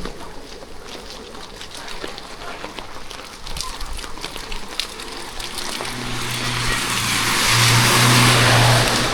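Rain ticking on the street, then a vehicle passing on the wet road: about six seconds in, its engine hum and the hiss of tyres on wet asphalt swell up, peak near the end and begin to fade.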